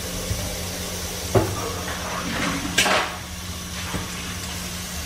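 Egg-coated peanut butter and jelly sandwiches sizzling steadily as they fry in hot oil, with two sharp clicks about a second and a half and three seconds in.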